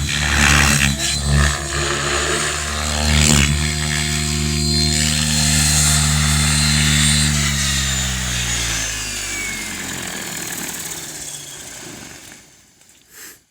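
RC helicopter's motor and rotor running, with a few sharp knocks in the first few seconds, then winding down: the pitch slowly falls and the sound fades out before the end.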